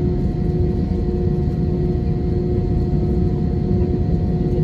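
Airbus A320 passenger-cabin noise: a steady, loud rumble with a constant engine hum tone running over it.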